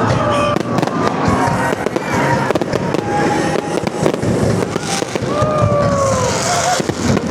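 Aerial fireworks going off in a rapid string of bangs and crackles.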